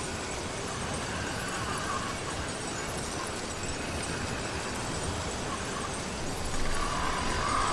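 Motorized bicycle on the move: a steady rushing noise, like wind on the microphone, with a faint whine from its small two-stroke engine that grows louder near the end.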